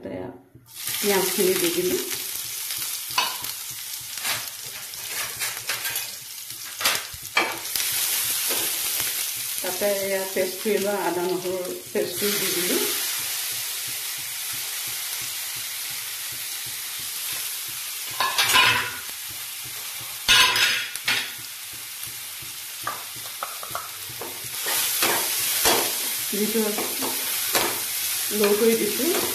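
Chopped onion, garlic, ginger and green chillies sizzling in hot oil in a frying pan, the sizzle starting about a second in as the first pieces hit the oil, with a spatula stirring and knocking against the pan.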